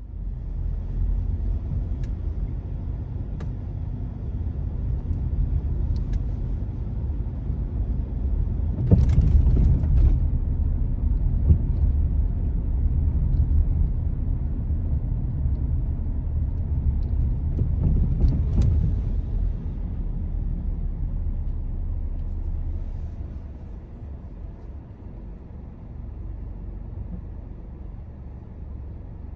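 Car driving on a road, a steady low rumble of road and engine noise. It swells twice, about nine and eighteen seconds in, and grows quieter near the end as the car slows.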